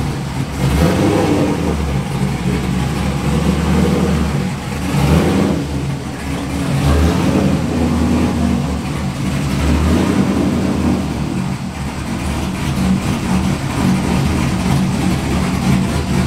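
Swapped-in 2002 GM LS6 V8 with an aggressive Trick Flow Track Max cam, running through long-tube headers and a custom single exhaust. It idles, and its loudness swells several times as the throttle is blipped.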